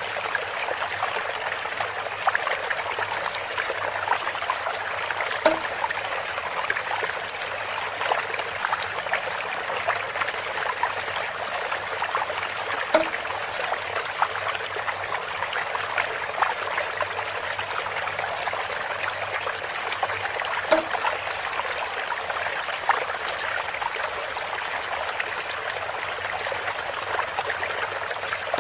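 Water trickling steadily from a bamboo spout, with small splashes throughout. A brief louder knock comes back about every seven to eight seconds.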